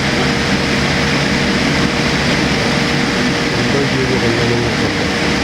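Steady cabin noise inside a Boeing 787-8 airliner: the even rush of the jet engines and airflow, unchanging throughout.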